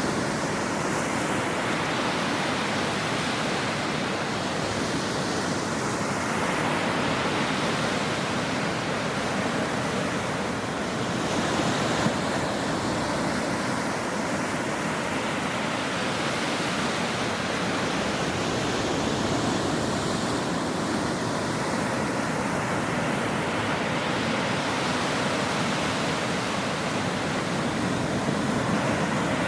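Ocean surf washing onto a shore: a steady, continuous rush of breaking waves, its hiss swelling and easing every few seconds.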